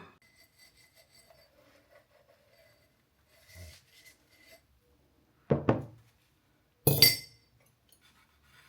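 Small hard objects being handled: faint clinks and rubbing, then two quick knocks a little past halfway and a louder glassy clink with a brief ring near the end.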